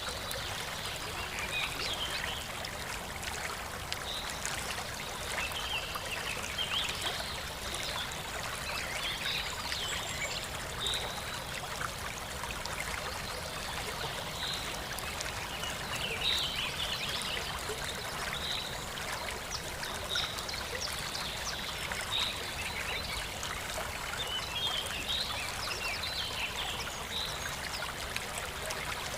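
Aquarium water trickling and splashing steadily, with frequent short, high chirps or droplet sounds scattered throughout.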